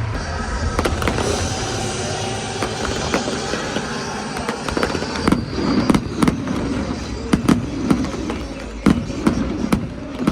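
Fireworks going off: a string of sharp, irregular bangs, thicker in the second half, over a steady background din.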